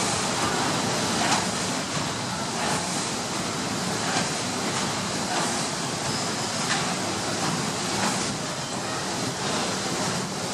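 The paddle steamer Schiller's steam engine running at slow cruising speed: a steady mechanical hiss and rumble with a regular beat about every second and a half, one per turn of the engine.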